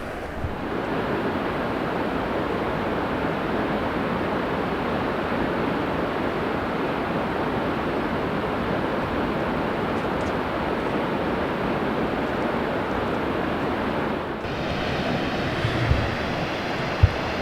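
Steady rush of a waterfall. About 14 seconds in the sound changes to a different steady noise with a faint low hum and a few knocks.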